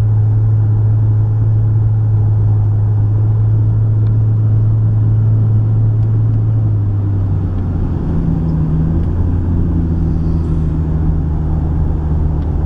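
Steady low drone of a car driving, heard from inside the cabin: engine and road noise. About seven seconds in, the hum changes pitch and settles into a new steady tone.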